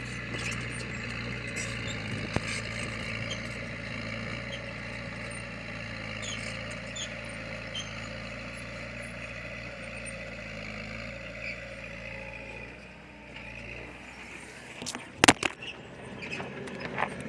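Diesel engine of heavy earthmoving machinery running steadily. The level drops briefly about thirteen seconds in, followed by a few loud, sharp knocks.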